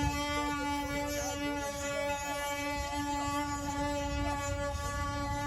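Wooden ox cart axle singing: a steady, unbroken whine with many overtones as the turning axle rubs in its wooden bearing, over a low rumble of the rolling cart.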